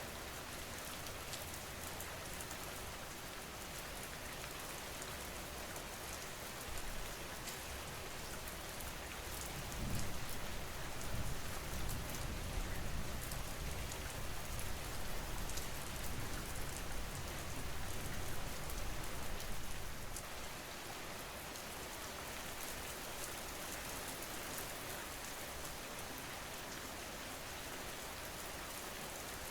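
Steady rain falling, an even hiss with the patter of individual drops. About a third of the way in a low rumble rises under it and lasts around ten seconds before fading back.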